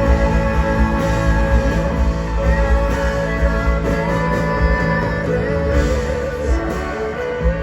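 Rock band playing live, guitars holding ringing notes over a steady bass-and-drums backing.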